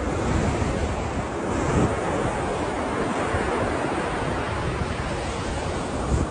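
Ocean surf: waves breaking and washing in a steady, dense rush with a low rumble underneath.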